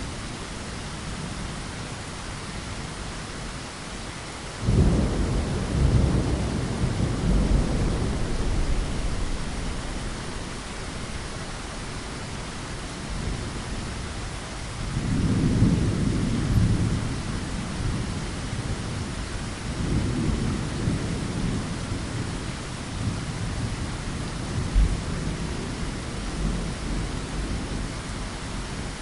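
Steady rain hissing, with deep rolls of thunder. The first rumble comes in suddenly about five seconds in and rolls for several seconds, and further rumbles swell around the middle and later on.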